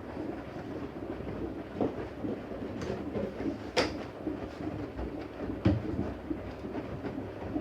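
Siemens Siwamat iQ 716 washing machine drum turning with the laundry tumbling, making a steady, uneven rumble broken by three sharp knocks.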